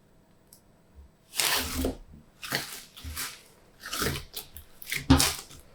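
Glossy slime being squeezed and folded by hand, making a series of irregular wet squelches and pops that start about a second in.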